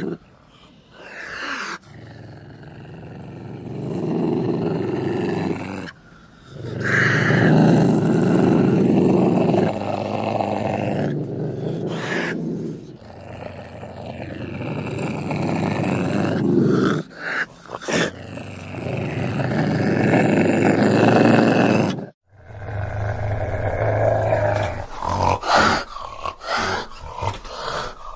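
A wild cat growling in several long, rasping bouts a few seconds each, with short pauses between them, breaking into shorter, choppier snarls near the end.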